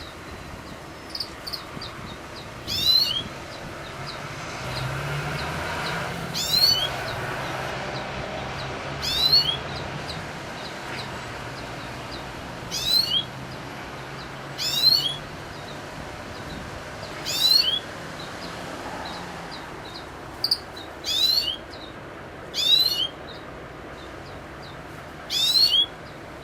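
A wild bird repeating a short, high call phrase about nine times, one every two to four seconds, with faint ticking notes in between; the species is unidentified.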